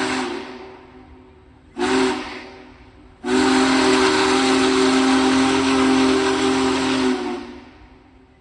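Steam whistle of Union Pacific Big Boy 4014, several tones sounding together over a hiss. A long blast fades out just after the start, a short toot comes about two seconds in, and then a long blast runs for about four seconds before dying away.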